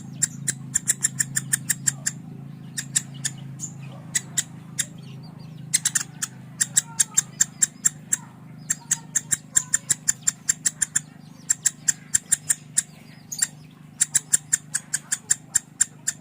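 Lovebird's konslet: long strings of rapid, sharp chirps, about six a second, broken by short pauses, over a steady low hum.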